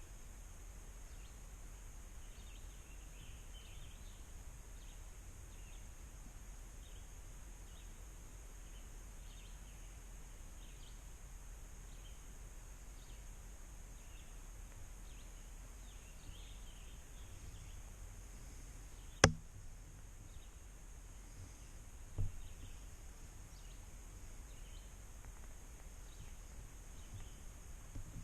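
Rural outdoor background of faint, scattered bird chirps over a steady high-pitched whine and a low rumble. A single sharp click about 19 seconds in, and a softer knock about three seconds later.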